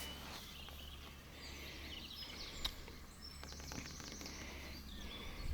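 Quiet lakeside ambience: small birds chirping faintly over a low steady rumble, with a single sharp tap a little past the middle.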